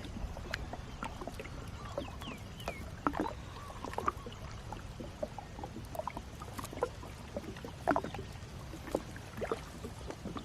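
Water lapping and dripping around a small fishing boat on the river, with scattered knocks and splashes as a gill net is handled and fish are freed from it.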